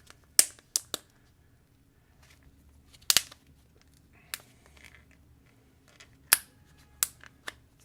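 Sharp clicks and snaps of plastic slime containers being handled, about seven separate clicks spread over several seconds, the loudest about three and six seconds in.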